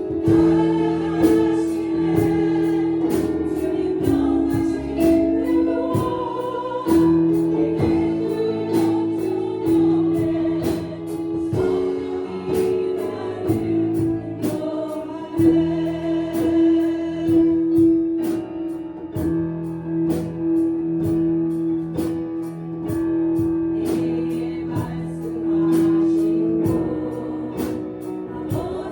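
Worship choir singing a gospel song over a band, with a steady drum beat about twice a second.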